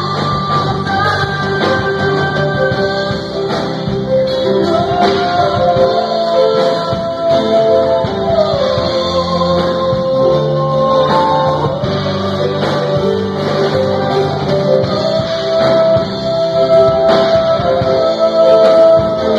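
Band music with guitar, carried by long held melody notes, likely a sung line, over a continuous accompaniment.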